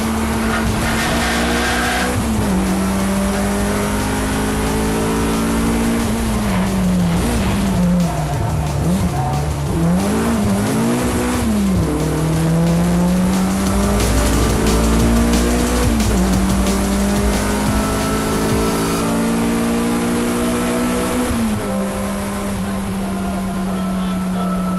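Car engine pulling hard on a race track: its pitch climbs slowly in long pulls, broken by short drops. Around the middle the pitch swings down and up several times in quick succession, as the car slows and works through a corner.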